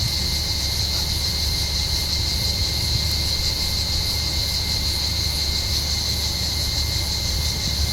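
Chorus of cicadas: a steady, unbroken high buzz, over a low steady rumble.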